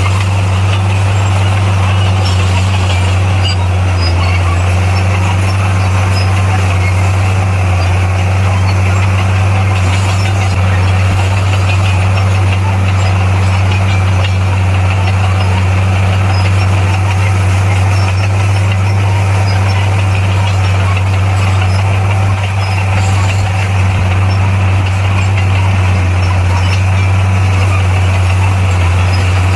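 Heavy diesel engine of a construction machine running steadily, a constant low drone with no change in speed.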